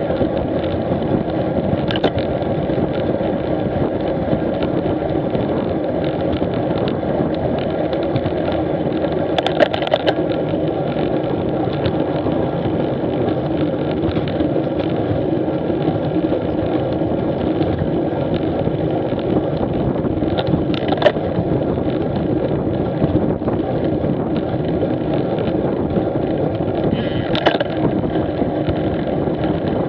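Street motorcycle under way: its engine running steadily under road and wind noise, with a few brief clicks or knocks.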